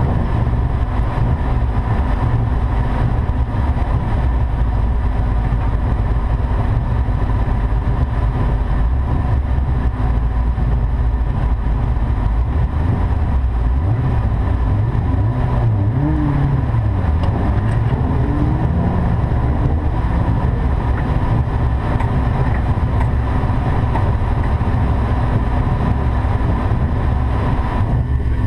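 Rally car engine idling and moving slowly forward, heard from inside the cabin as a steady low rumble. A few brief rises and falls in revs come around the middle.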